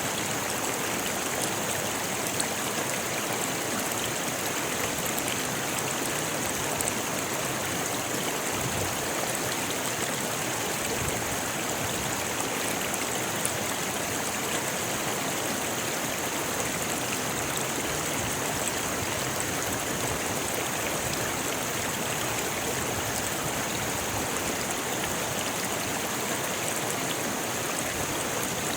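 Rocky river flowing over stones: a steady, unbroken rush of water with small splashes and ticks throughout.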